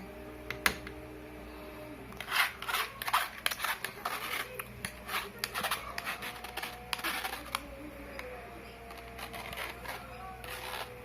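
Irregular light clicks and taps of a spoon working in a drinking glass as iced dalgona coffee is assembled, thicker in two spells, over a faint low hum.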